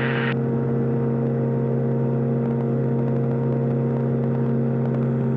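Light aircraft's engine running steadily at climb power, heard from the cockpit as an even drone with no change in pitch; a higher hiss drops away shortly after the start.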